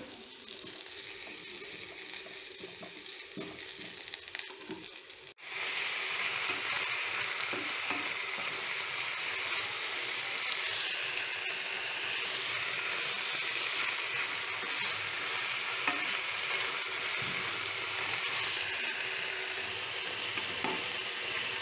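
Onions and curry ingredients sizzling in hot oil in a kadai while being stirred with a spatula, with a few faint scrapes. About five seconds in the sound cuts abruptly and a louder, steady sizzle of frying takes over.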